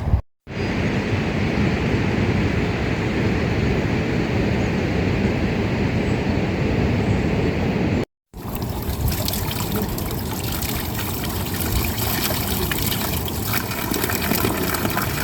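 Steady rush of running water, in two stretches broken by a short silent cut about eight seconds in; the second stretch has more fine spattering.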